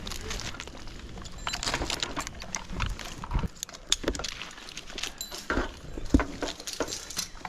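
Metal climbing hardware clinking and rattling as the climb line is handled, with irregular sharp clicks and rustling scrapes.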